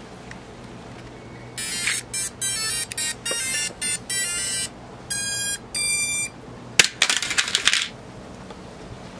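A small combat robot's weapon motor whines in a string of short, high-pitched bursts as it is throttled on and off. Near the end comes a sharp hit, followed by under a second of rattling clatter.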